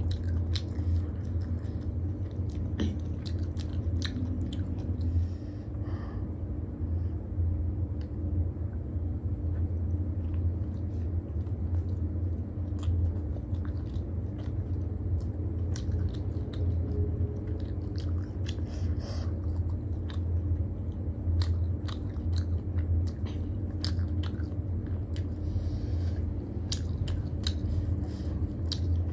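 Close-up chewing and mouth sounds of a person eating steamed momos: wet smacks and small clicks come every second or so. A steady low hum runs underneath.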